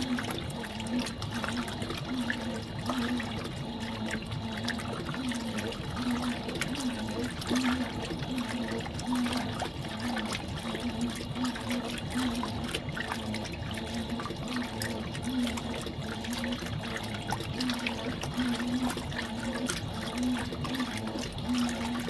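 Fisher & Paykel MW059 top-loading washing machine washing a load, with water sloshing in the tub and a motor hum that swells and fades in a steady rhythm as the agitator strokes back and forth.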